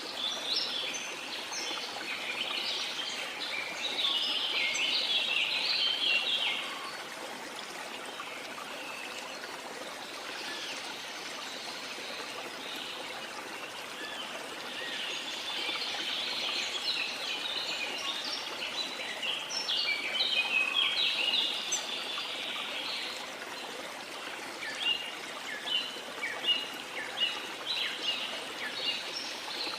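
Steady rush of a flowing river under a busy chorus of forest birds chirping and calling. The birdsong swells about four seconds in and again midway, and near the end turns into a run of short, repeated chirps.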